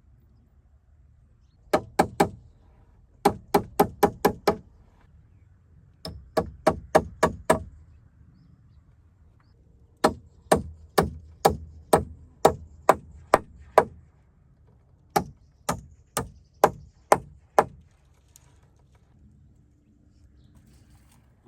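Hammer driving nails into timber: five runs of quick strikes, about three or four a second, separated by short pauses.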